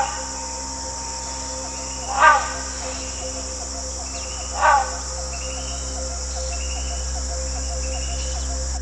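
Rainforest sound: a steady high insect drone under three loud, short bird calls, each about two and a half seconds apart, with fainter small chirps in between.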